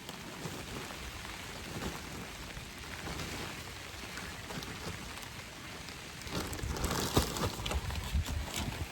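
Heavy rain falling in a steady hiss. From about six seconds in it grows louder, with a low rumble and a few sharp taps.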